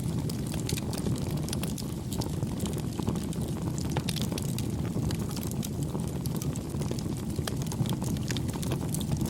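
Wood campfire burning: a steady low rush of flames with frequent small crackles and pops.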